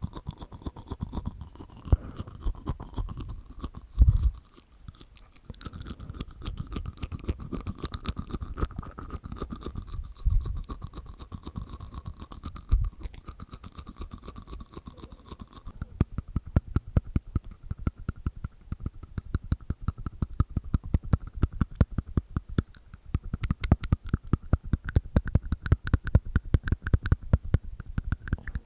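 Close-miked ASMR mouth sounds made inside the mouth with the tongue and teeth: rapid wet clicks and smacks, with a few louder pops in the first half, then a fast, even run of clicking.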